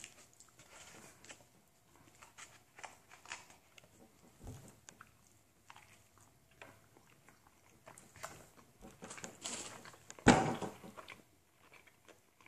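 A person biting into and chewing a BBQ brisket sandwich, close up: soft wet mouth sounds and small clicks. A single louder thump comes about ten seconds in.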